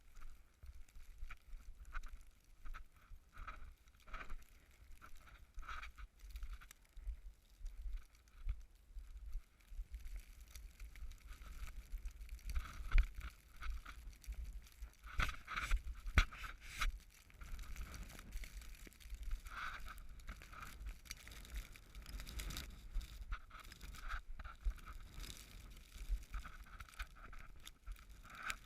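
Crunching steps through snow, about one a second at first and then more irregular, over a low rumble of wind on the microphone.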